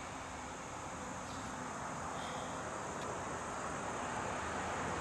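Steady high-pitched insect chirring outdoors, over a low rumbling background noise.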